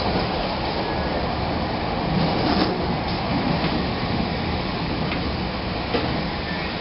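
Steady rumble and rush of a moving passenger train, heard from inside the car, with a few faint knocks.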